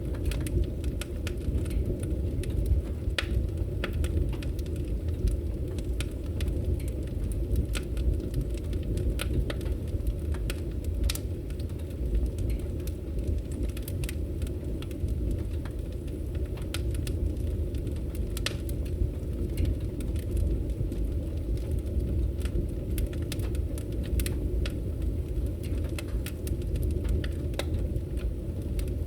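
Wood fire burning in a fireplace: a steady low rumble of flames with irregular sharp crackles and pops of burning wood.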